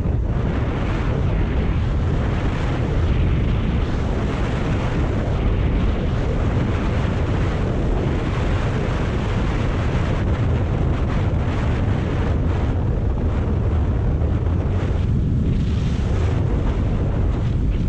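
Steady wind rush buffeting the microphone of a moving Kawasaki Ninja 400 motorcycle, with the bike's running mixed in underneath.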